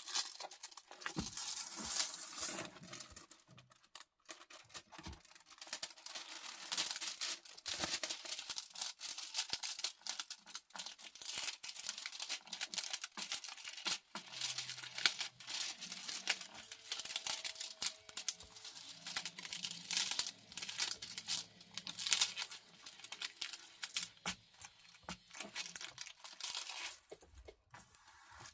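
Plastic film and canvas of a diamond painting crinkling and rustling irregularly as it is handled and smoothed out.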